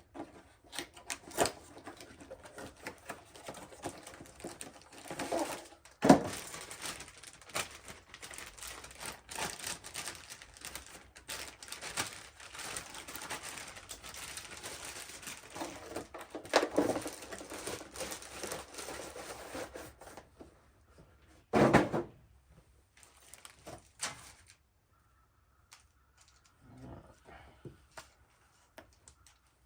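Steel steering linkage parts and hand tools being handled: rapid clicking and clatter with a few sharper knocks, thinning out to occasional quiet handling noises near the end.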